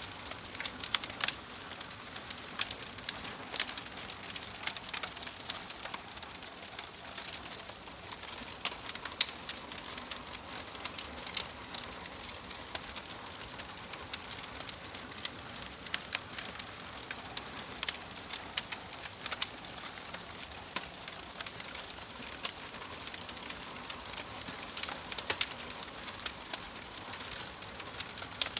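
Wood fire burning in a fireplace, crackling and popping irregularly over a steady soft hiss.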